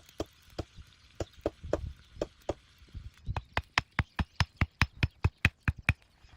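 Wood being struck over and over by hand, as in chopping or hammering during shelter building: a run of softer knocks, then from about three seconds in a faster run of sharper knocks, about four a second.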